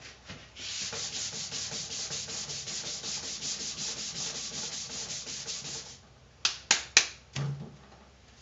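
Coarse 40-grit sandpaper rubbed quickly back and forth by hand over a car door's repair patch, about five scraping strokes a second. Near the end come a few sharp knocks.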